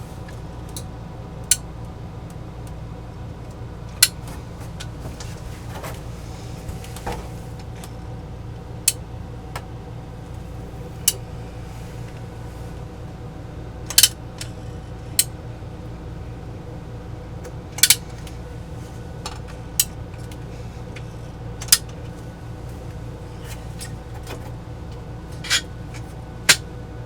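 About a dozen sharp clicks and light clinks come at irregular intervals, as small tools and hardware are picked up, set down and worked, over a steady low hum.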